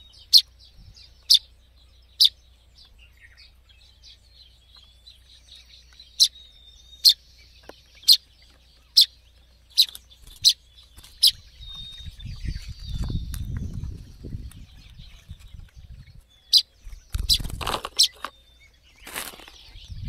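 Fledgling songbird giving short, sharp single chirps, about one a second, in runs with a pause in the middle. Low rumbling and loud rustling from handling and leaves come in the second half.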